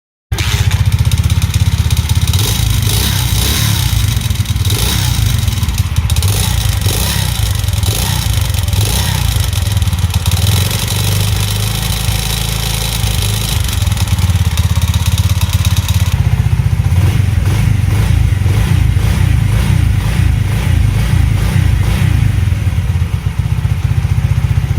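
110 cc single-cylinder four-stroke moped engine running, revved up and down a few times in the first half.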